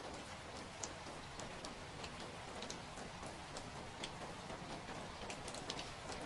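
Steady rain with irregular drops pattering and ticking on a nearby surface.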